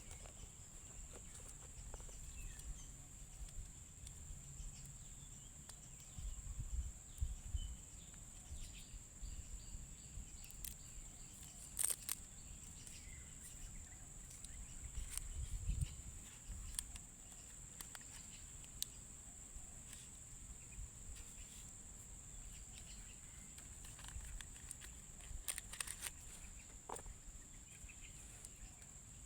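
Faint outdoor ambience: a steady high-pitched drone, with a few faint bird chirps, scattered clicks and low rumbles now and then.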